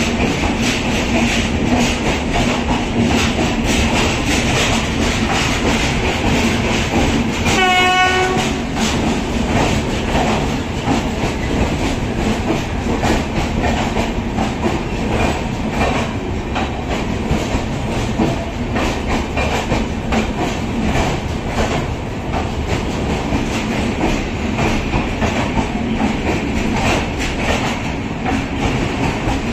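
Coaches of a departing express train rolling past, the wheels clacking over rail joints in an uneven rhythm. About eight seconds in, a train horn sounds once, briefly.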